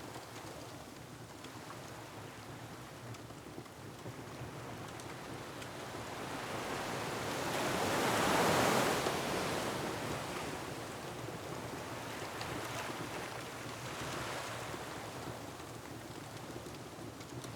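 Ocean surf with wind: a wave builds to a loud rush about halfway through and falls away, and a smaller swell follows near the end. Faint crackles of a wood fire run underneath.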